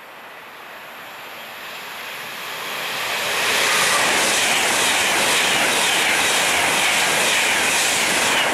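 Avanti West Coast Class 390 Pendolino electric train passing through at speed: a rush of wheel and air noise that grows steadily, turns loud about three and a half seconds in and holds as the carriages sweep by, then cuts off suddenly at the end.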